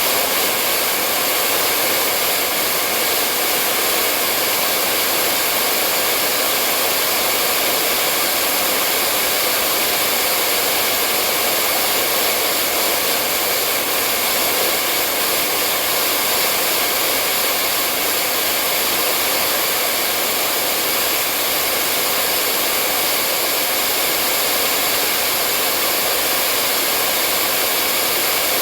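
Hair dryer running continuously: a steady, even rush of blowing air and motor hum.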